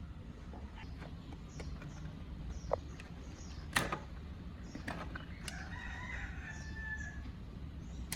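A rooster crowing once, about halfway through, over scattered light clicks and two sharper knocks earlier on.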